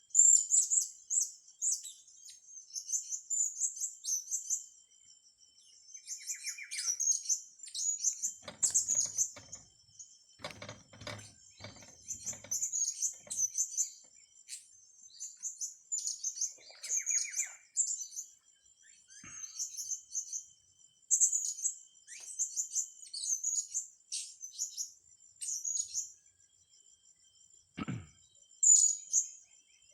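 Blue-crowned hanging parrots (serindit) calling: quick runs of very high, thin chirps, repeated again and again. A spell of lower rustling comes about a third of the way in, and there is a single knock near the end.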